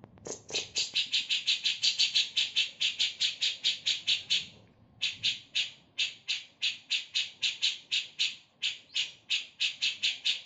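Grey-cheeked bulbul (cucak jenggot) giving its harsh chattering call: a fast, even string of rasping notes at about seven a second. The string breaks off briefly about halfway through, then starts again.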